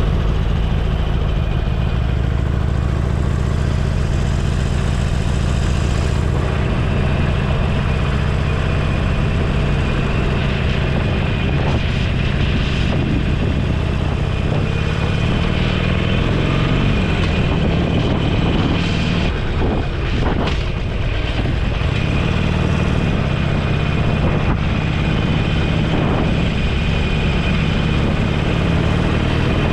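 Motorcycle engine running under way, heard from on board with steady wind and road noise; the engine note sags and climbs again a little after the middle.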